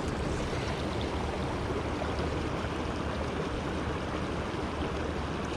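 Small mountain trout stream flowing: a steady, even rush of running water.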